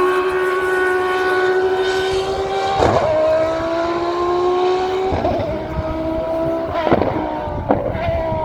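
Formula 1 racing car engine running at high revs as the car accelerates. Its pitch climbs slowly and drops sharply at each upshift, with four gear changes about three, five, seven and eight seconds in.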